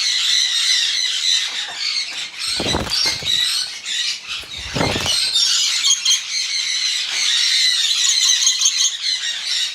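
Conures squawking and screeching continuously in shrill, overlapping calls, with two brief louder, rougher bursts about three and five seconds in.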